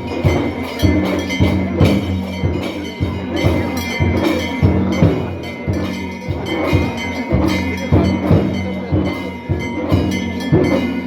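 Drums beaten at a steady beat with ringing bells over a low drone, as devotional music accompanying the temple lamp-lighting.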